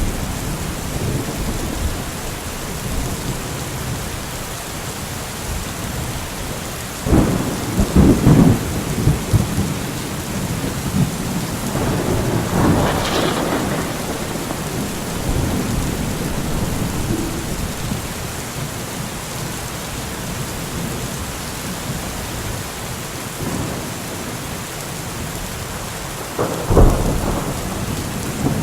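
Steady heavy rain with rolling thunder. Crackling rumbles come about seven seconds in and again near the middle, and a short sharp clap sounds near the end.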